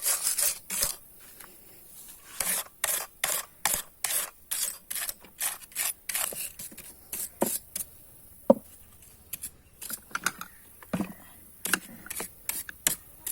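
Stiff brush scrubbing sawdust off a Stihl MS460 chainsaw around the chain sprocket area, in quick, scratchy strokes a few a second, with short pauses.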